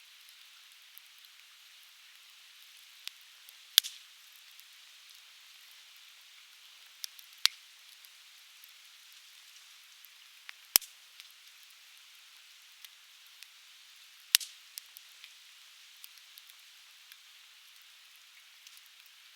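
Coniferous firewood crackling as it burns: four sharp, loud pops spaced three to four seconds apart, with smaller snaps and ticks between them, over a steady hiss.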